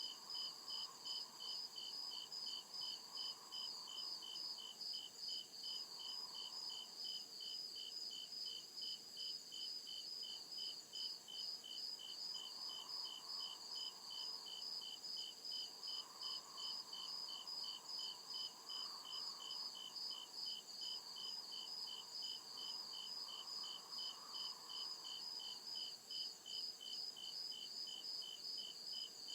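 Crickets chirping in a steady, evenly repeating rhythm of short pulses, with a fainter continuous insect hum above it.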